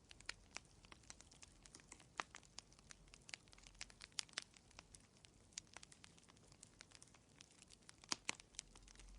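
Wood fire crackling quietly in a fireplace: irregular sharp pops and snaps, with two louder pops near the end.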